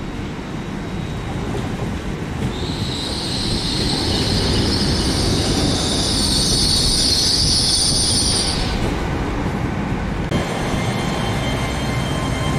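A GWR Hitachi intercity express train runs slowly in along the platform with a steady rumble. A high-pitched squeal from its braking wheels starts about two and a half seconds in and stops about six seconds later as it slows.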